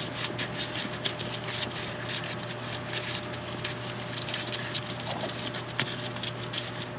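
Small scattered clicks and taps of the MaxxForce 13's fuel primer pump cap being twisted back down and tightened, over a steady low hum.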